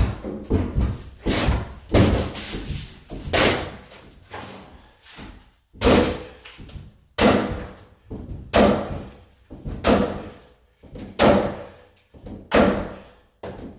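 Repeated heavy blows on a wooden cabinet being taken apart by hand, about one every second and a half, each strike ringing briefly in the room.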